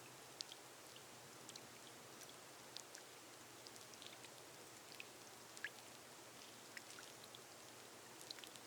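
Faint steady rain on a glass roof, a soft hiss with individual drops ticking irregularly on top.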